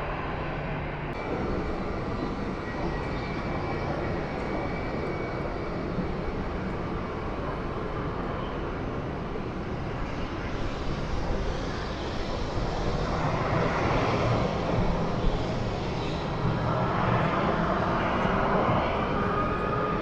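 Jet airliner engines running with a steady rumble and a faint whine, growing louder about two-thirds of the way through.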